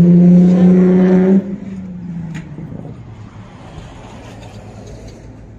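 A car engine running at a steady pitch, then dropping lower and fading away about a second and a half in.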